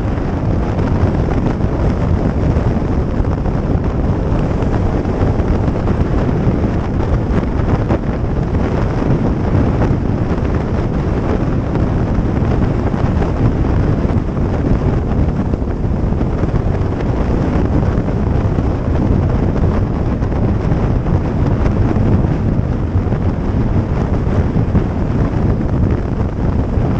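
Steady wind rush buffeting the microphone of a motorcycle at road speed, loud and even throughout, with no distinct engine note standing out.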